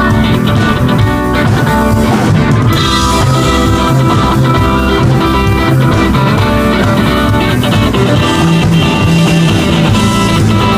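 A rock band playing live, electric guitar over bass and drum kit, loud and steady, with no singing.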